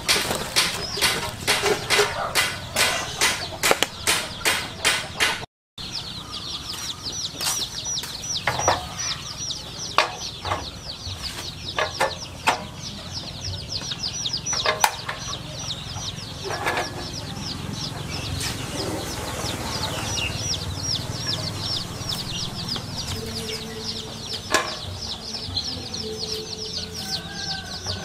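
Dry crunching and rustling of lemongrass stalks and banana leaf, about two or three strokes a second, as hands pack them around a raw chicken. After a brief cut to silence about five seconds in, a bird chirps in a fast, even run of high notes, several a second, with scattered light knocks.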